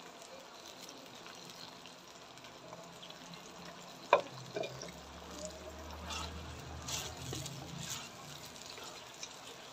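Onions, tomatoes and garlic-ginger paste sizzling softly in a clay pot over a wood fire. About four seconds in there is a sharp knock as a hand takes the wooden spoon against the pot, then a few scraping strokes as the spoon stirs the mixture.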